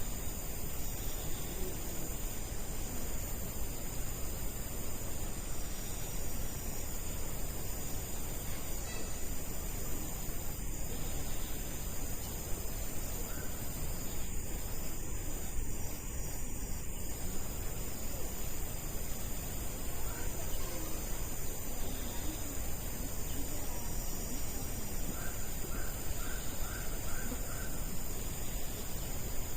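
Steady chorus of insects, crickets or similar, shrilling continuously at high pitch. A bird calls now and then, with a quick run of about five short repeated notes near the end.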